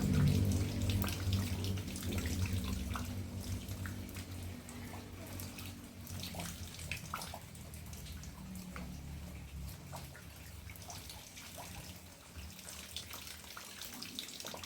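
Rainwater dripping and trickling, with many scattered drops falling at an uneven rate. A low pitched hum fades away over the first few seconds.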